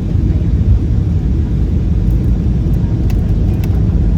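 Airbus A320 cabin noise from inside the passenger cabin: a steady low rumble of the jet engines and the airflow over the fuselage.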